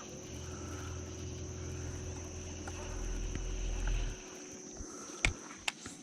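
A low motor hum runs for about four seconds, then stops, over a steady high insect drone. A few sharp clicks come near the end.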